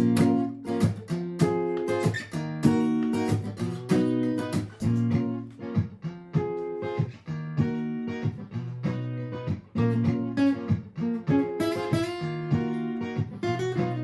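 Martin GPCPA4 acoustic guitar strummed in a steady rhythm of chords, played through a looper pedal with no singing.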